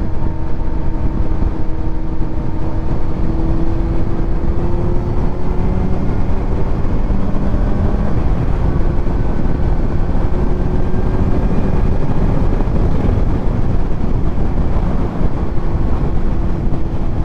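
Kawasaki Z900's inline-four engine running through a titanium Arrow exhaust while cruising at a fairly steady speed, its note holding nearly constant with only slight rises and dips, under heavy wind and road rush.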